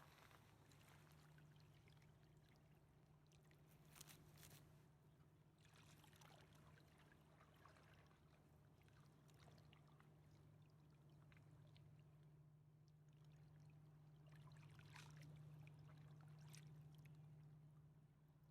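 Faint river water lapping and trickling, with a few brief small splashes and a steady low hum underneath.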